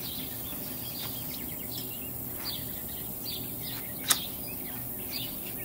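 Birds chirping and calling, short high chirps scattered throughout over a faint steady low hum, with one sharp click about four seconds in.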